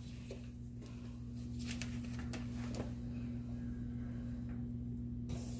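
Steady low electrical hum with a few faint light taps and rustles.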